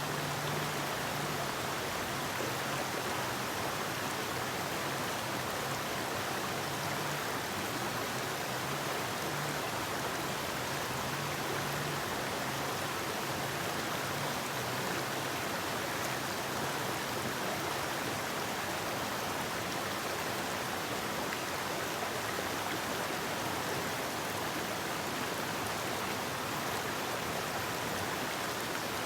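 Forest river flowing: a steady, even rush of running water with no breaks.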